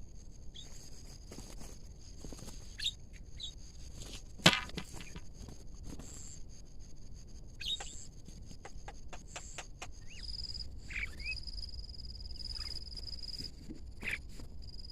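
Birds chirping and calling in short scattered notes. There is one sharp click about four and a half seconds in, and a steady high-pitched tone sets in about ten seconds in.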